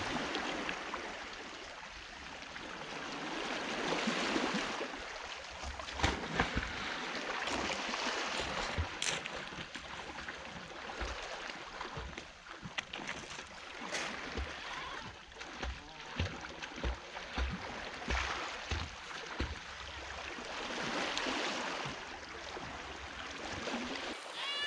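Sea waves breaking and washing up the beach, the rush of water swelling and fading every few seconds. A few sharp knocks cut through it, the loudest about six seconds in.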